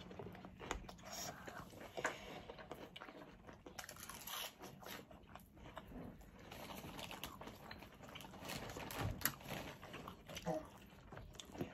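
Faint chewing and crunching of fried chicken tenders, with many small irregular clicks and mouth noises.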